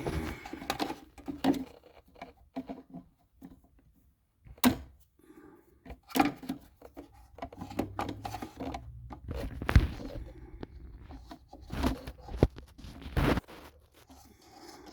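Irregular knocks, clicks and rattles of hands working with tools and parts, with gaps between them. The sharpest knock comes near the end, and several more follow.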